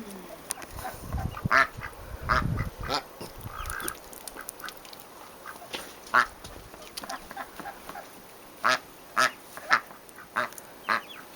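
Duck calling in short quacks, single ones spread out at first, then a quicker run of them in the last few seconds. A low rumble is heard for the first few seconds.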